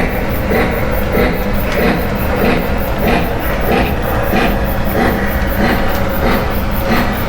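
Lionel O gauge model train running along the layout track: a steady rumble of motor and wheels, with a short regular beat repeating about every 0.6 seconds.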